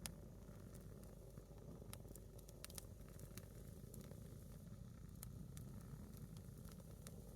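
A single log of firewood burning, giving off irregular faint crackles and sharp pops over a low steady rumble.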